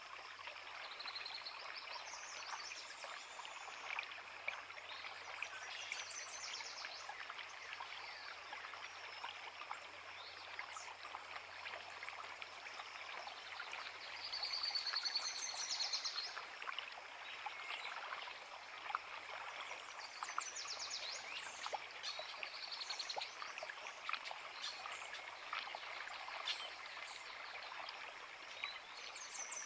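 A creek babbling steadily over rocks, with songbirds singing short phrases above the water; one louder bird phrase comes about halfway through.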